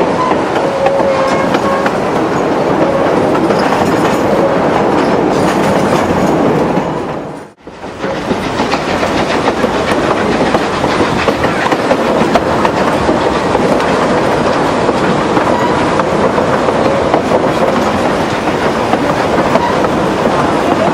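Durango & Silverton narrow-gauge train running, heard from aboard: a steady rumble with the clickety-clack of wheels on the rail joints. The sound drops out for a moment about seven and a half seconds in, then comes straight back.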